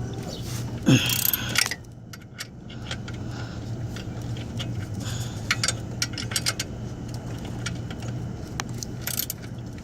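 Scattered metallic clicks and clinks of hand tools such as a ratchet and socket being handled, over a steady low hum, with a louder scrape and a short falling squeak about a second in.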